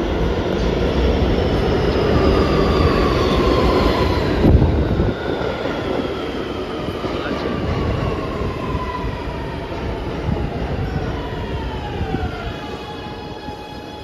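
R211T subway train pulling into a station, its electric motors whining in several tones that glide steadily downward as it slows, over the rumble of wheels on rail. There is a loud knock about four and a half seconds in. Near the end the falling whine stops and a steady higher hum holds as the train comes to rest.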